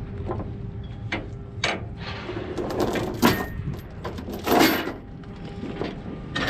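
Metal clinking and clanking of a tie-down chain being handled, with a few sharp strikes, the loudest about three and four and a half seconds in, over a steady low rumble.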